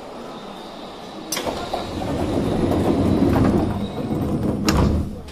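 Commuter train rumble heard from inside a car standing at the platform with its doors open; it swells to a peak and eases off. Near the end there is a sharp knock, and the noise drops away suddenly as the doors slide shut.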